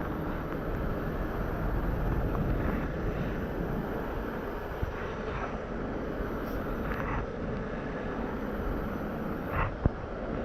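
Steady low rumble of heavy vehicles running, with a couple of brief faint squeaks and a sharp click near the end.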